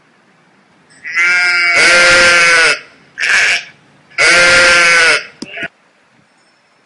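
Sheep bleating close by: a long bleat about a second in, a short one, then another long one, each with a rich, buzzy pitch.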